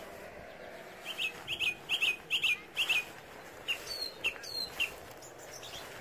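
Small birds chirping: a quick run of short, sharp chirps, then a few scattered chirps and a couple of higher down-slurred notes, over a faint steady background hiss.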